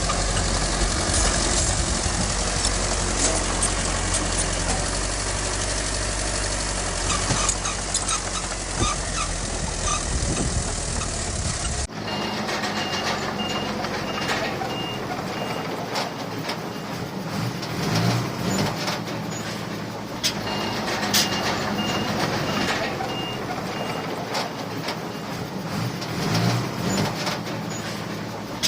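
Heavy diesel earthmoving machinery running with a deep rumble. After an abrupt change about twelve seconds in, a reversing alarm beeps steadily at about two beeps a second in two spells of a few seconds each, over the engine noise.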